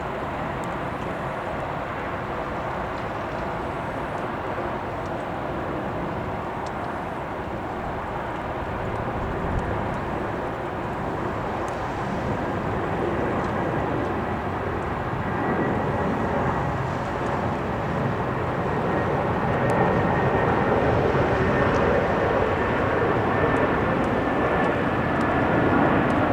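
Airbus A330-300's Rolls-Royce Trent 700 jet engines as the airliner flies over on its approach to land: a steady rushing drone that grows louder, with a faint high whine coming in about halfway through and falling slightly in pitch.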